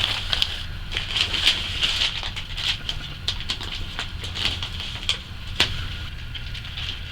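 Crinkling and clicking as the flexible chimney liner pipe is handled and pressed onto its glued insulation wrap, with a sharper click about five and a half seconds in, over a steady low hum.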